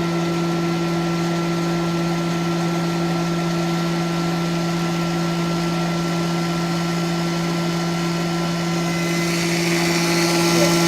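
Koch UV250 chamber vacuum packer's Busch rotary-vane vacuum pump, freshly rebuilt and with fresh oil, running with a steady hum as it pulls the chamber down to vacuum. About nine seconds in, a hiss comes in and grows louder.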